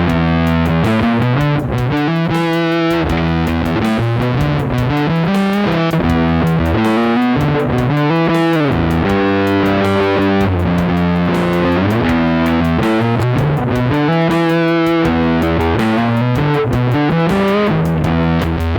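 Electric guitar played through a Big Muff-style fuzz pedal: thick, heavily distorted chords that ring out and change every second or so, with picked attacks between them.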